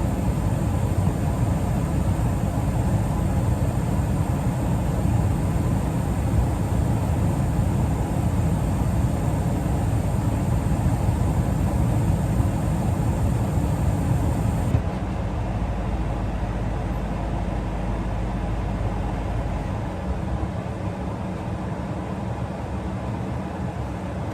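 Comfortmaker gas furnace in its shutdown cycle: the inducer fan and blower run with a steady whir. A high hiss cuts off abruptly about 15 seconds in, and the sound eases a little again about 20 seconds in.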